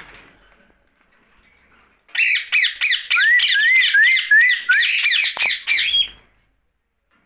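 Indian ringneck parakeet giving a fast run of loud squawking calls, about four a second, with short rising whistled notes mixed in. It starts about two seconds in and stops abruptly after about four seconds.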